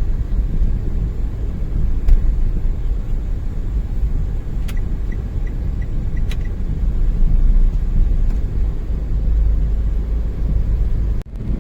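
Steady low rumble of vehicle travel on a busy city road, with a short run of quick, high beeps in the middle; the sound drops out abruptly near the end.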